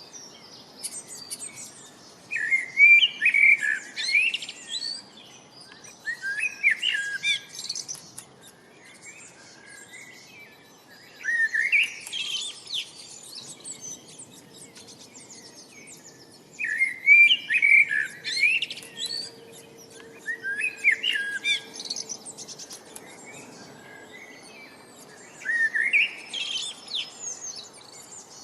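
Songbird singing: a short phrase of quick chirps and trills, repeated about six times with a few seconds' pause between, with fainter chirping in the gaps.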